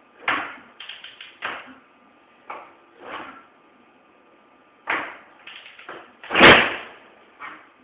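Kick-starting a cold 1984 Husqvarna WR400 two-stroke dirt bike with the choke on: a run of irregular thumps and clunks from the kickstarter and engine, the loudest about two thirds of the way through. The engine does not catch and run.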